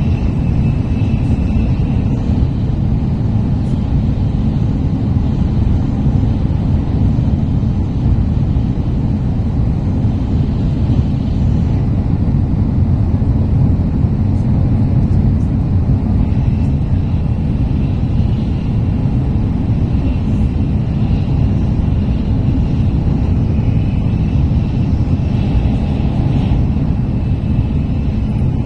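Steady low rumble of a Tokaido Shinkansen train running, heard inside the passenger car, with a faint high whine that comes and goes.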